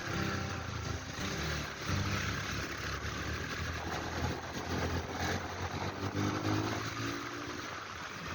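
Kuba Superlight 200 chopper motorcycle's engine running steadily while riding, with a steady rushing noise over it.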